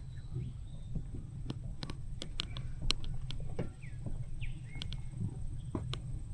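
Wildlife calls: short high chirps and little whistled glides, scattered with sharp clicks, over a steady low rumble.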